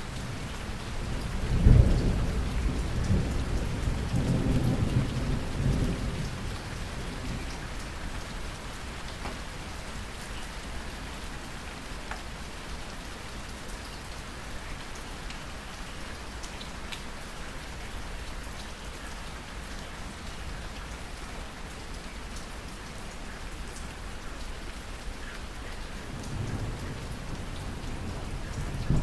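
Thunderstorm: steady rain falling, with a sharp thunderclap about two seconds in that rolls into a low rumble for several seconds, and another roll of thunder building near the end.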